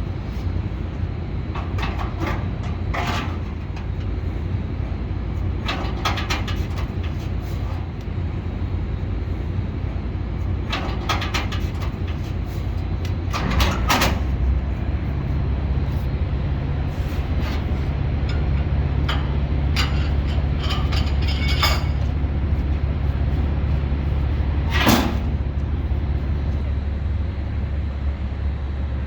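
Detroit Diesel 12V-71 two-stroke V12 diesel running with a steady low rumble that grows stronger about halfway through. Several short sharp noise bursts sound over it, the loudest about halfway through and again near the end.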